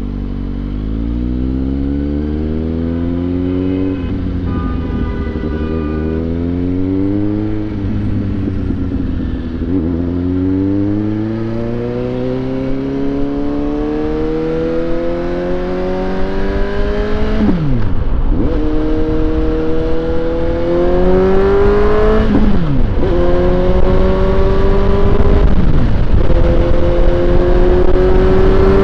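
Suzuki GSX-S750's inline-four engine accelerating hard up through the gears, its pitch climbing steadily and dropping sharply at each of several upshifts. Wind rush builds as the bike gets up to highway speed.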